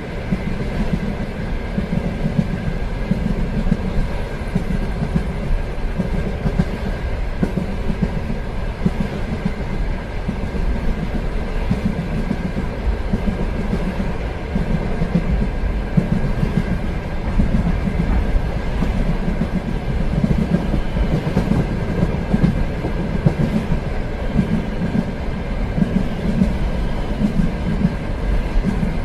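Passenger train running along the track: a steady rumble that swells and fades in a loose rhythm, with the clickety-clack of wheels over the rails and a faint steady whine above it.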